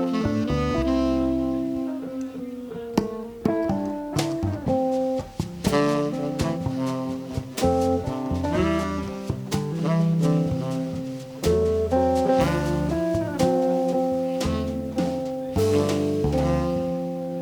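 Live jazz combo playing: a guitar picking out a line of quick notes over a double bass and band accompaniment.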